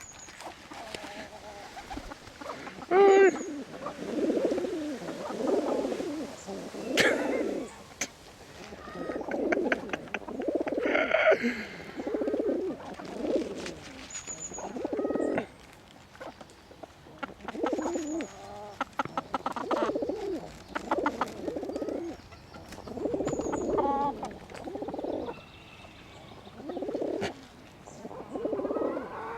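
Birds calling over and over: low calls about a second long follow one another, with a brief high squeak every few seconds.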